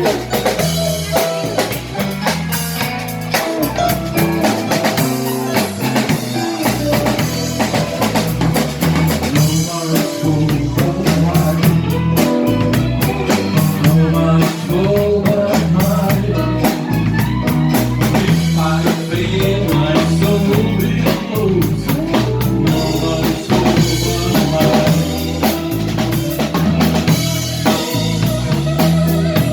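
Live rock band playing on stage, with a drum kit beating steadily, rimshots and bass drum, under guitars and bass.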